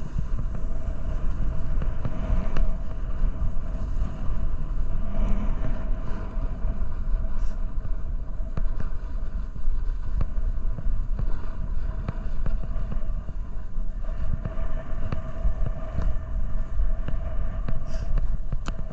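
Snowboard scraping over icy, hard-packed snow, a continuous rough rumble as the edges and base skid across the ice.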